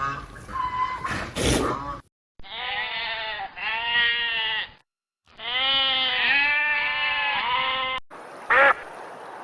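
An animal calling: three long, drawn-out calls in a row, separated by short silent gaps, then a short call near the end. A rougher, noisier animal sound before them breaks off abruptly about two seconds in.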